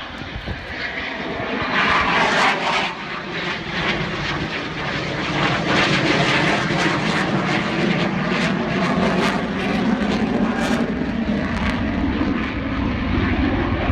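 Jet noise from a Eurofighter Typhoon's twin Eurojet EJ200 turbofans during a display pass. It grows louder over the first two seconds, then holds as a loud roar with a crackling rasp.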